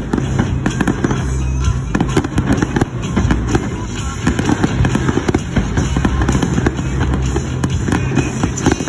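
Fireworks display: a dense, rapid run of booms and crackling bursts, one on top of the next, with music playing underneath.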